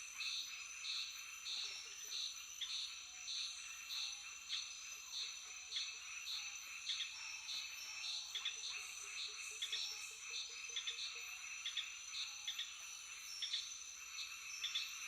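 Night chorus of frogs and insects: a steady high insect whine with short calls repeating about one and a half to two times a second.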